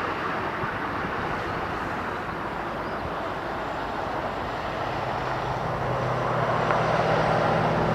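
Jet airliner engines, a steady rush that grows louder over the last few seconds, with a low drone joining about five seconds in.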